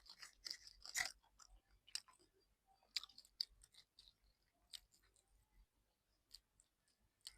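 A person chewing fish close to the microphone: wet mouth clicks and smacks, coming thick in the first couple of seconds and then more sparsely.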